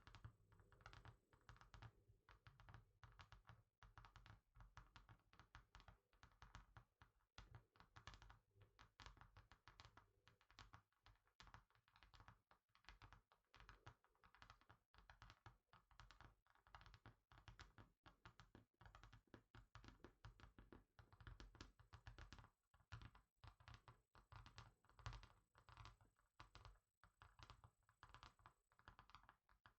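Fingertips and fingernails tapping quickly and irregularly on a hard surface, several soft taps a second, close to the microphone.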